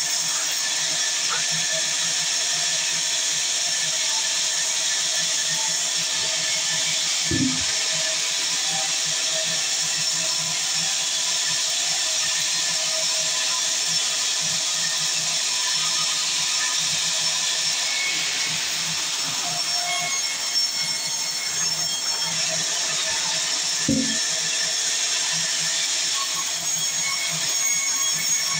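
Sawmill saw running steadily through timber, a continuous high-pitched noise, with two short knocks from the mill.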